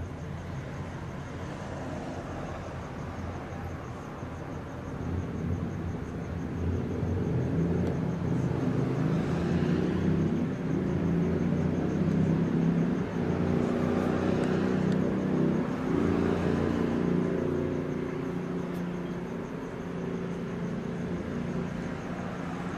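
A passing vehicle's engine and road noise, swelling over several seconds to a peak about halfway through and then fading away.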